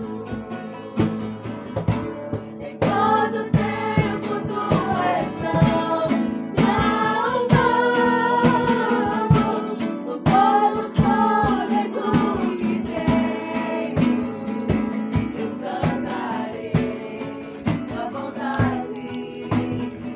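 Worship song: voices singing over a strummed guitar, the voices coming in strongly about three seconds in.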